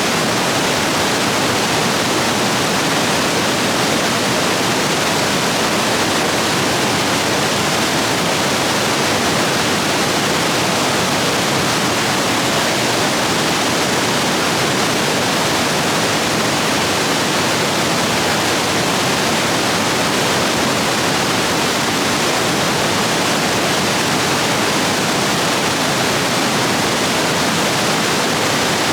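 Stream rapids rushing steadily, swollen after heavy rain: a loud, unbroken wash of water noise.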